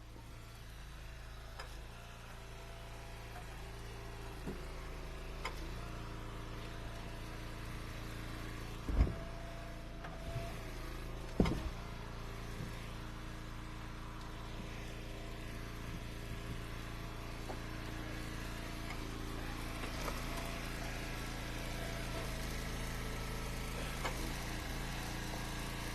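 Gas engine of a hydraulic log splitter running steadily, growing slowly louder, with two sharp knocks about nine and eleven and a half seconds in.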